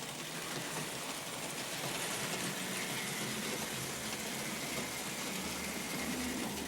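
Märklin RM 800 cast-metal model steam locomotive running steadily along its track: a continuous rolling and running noise with a faint steady hum.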